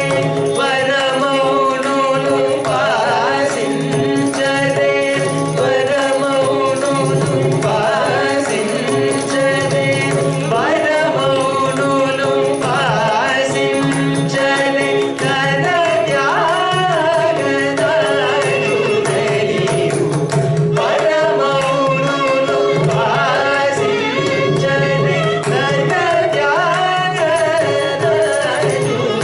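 Carnatic vocal music: a voice sings an ornamented, gliding melody over a steady drone, with mridangam accompaniment.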